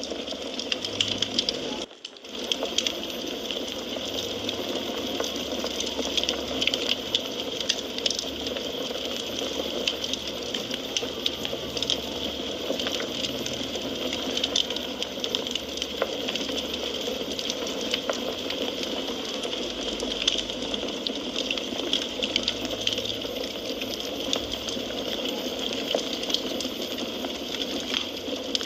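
Wood fire in a fireplace crackling: a steady hiss and rustle of burning logs with frequent small sharp pops, briefly dropping away about two seconds in.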